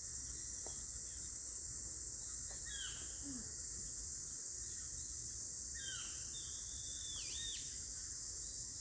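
A few short bird calls, each sliding down in pitch, about three seconds in and again several times between six and seven and a half seconds. Behind them runs a steady high hiss and a low rumble, like outdoor nature ambience.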